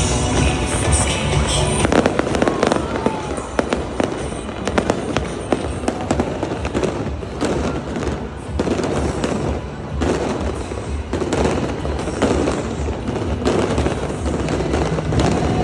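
New Year's Eve fireworks display: a continuous run of firework bangs and crackling explosions, with music playing underneath.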